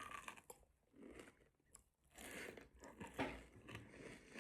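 Faint biting and chewing of a homemade Dubai chewy cookie, with irregular soft crunches.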